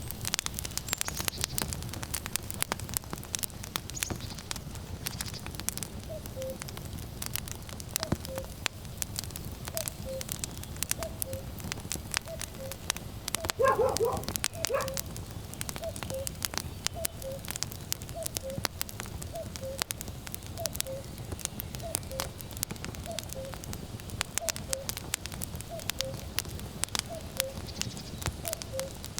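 Burning firewood crackling and snapping over a low rumble of wind. From several seconds in, a common cuckoo repeats its falling two-note call about once a second, and near the middle a dog barks briefly.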